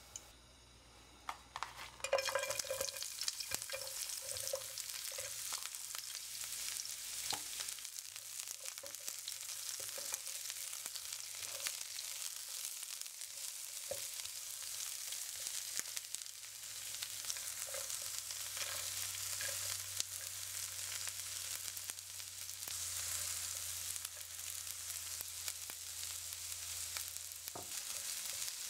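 Sliced red onion, garlic and galangal sizzling in hot oil in a nonstick pan while being stirred, with small clicks of the utensil against the pan. The sizzle starts abruptly about two seconds in and then stays steady.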